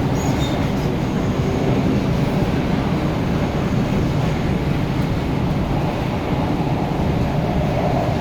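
Hyundai Rotem-built MTR Tung Chung Line K-Train running between stations, heard from inside the carriage: a steady, loud rumble of wheels on rail and running gear.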